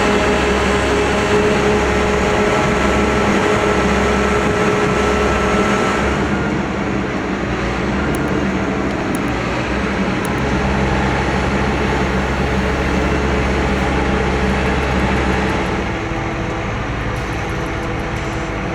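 Heavy vehicle engines running steadily under load: a deep low rumble with a steady drone over it. The drone changes about six seconds in, and the sound drops a little in level near the end.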